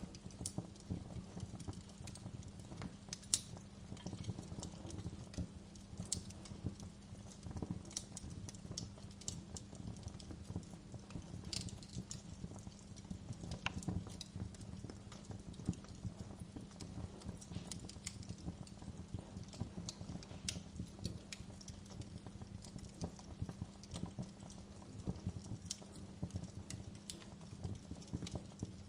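Wood fire in a fireplace, crackling steadily with dense small crackles and a sharper pop every few seconds, over a steady low rumble.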